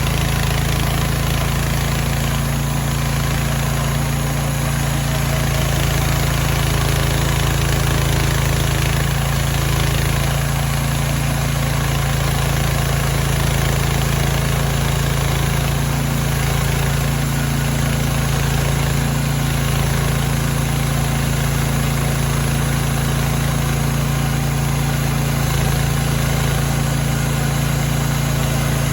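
Mechmaxx band sawmill's gas engine running steadily at an even speed, with a constant low hum.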